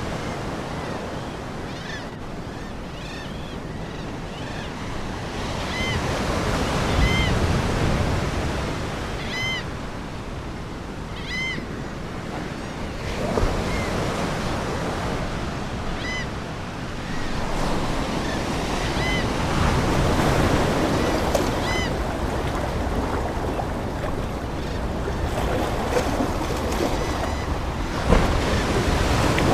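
Ocean waves washing in and out, swelling and easing every few seconds, with seagulls giving short calls at intervals over them.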